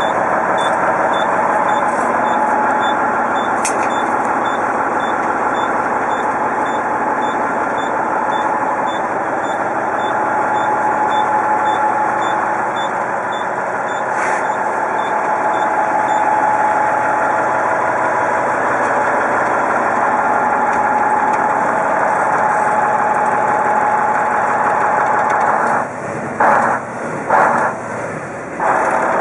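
Diesel engine of a 2003 International 9400 truck tractor running steadily. Through the first half a high backup-alarm beep repeats about twice a second, then stops. Near the end the engine sound drops and turns uneven.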